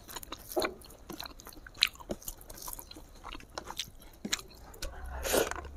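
Close-miked mouth sounds of someone eating smoked pork and sticky rice: chewing with many short, wet clicks and smacks. A louder, longer noisy sound comes near the end.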